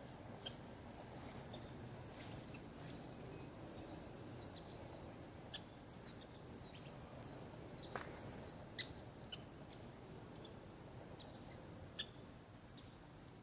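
Small songbird calling a run of short, high, down-slurred notes, about two a second, for about seven seconds, then a few single sharp chips.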